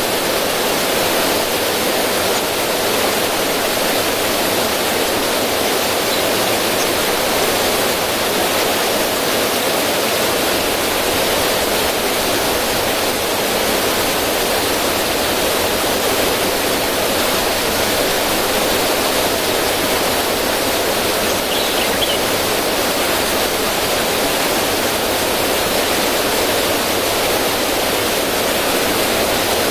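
River water rushing and splashing over rocks in a small cascade, a steady even rush with no break.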